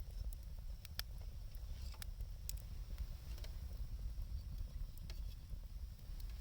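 Wood bonfire crackling, with scattered sharp pops, one or two a second, over a steady low rumble.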